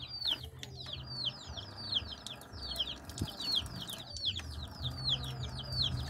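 Birds chirping over and over, short high chirps that drop in pitch, several a second, with a low hum underneath.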